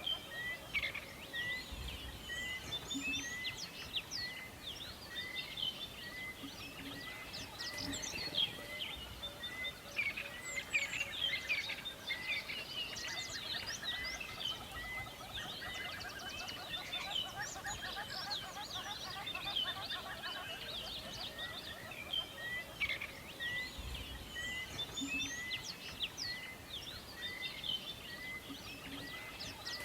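Many birds chirping and calling together in a forest chorus, over a faint background hiss, with one bird repeating a short note a little more often than once a second.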